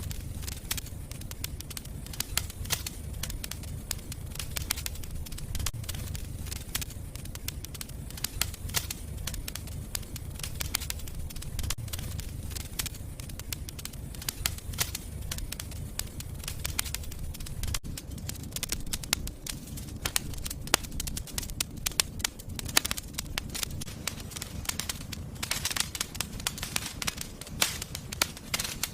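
Wood fire burning in a fireplace, crackling with frequent sharp pops over a steady low rumble; the crackling grows denser near the end.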